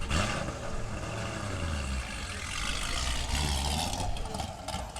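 Car engine running and revving, its pitch climbing near the start and again midway as the revs rise.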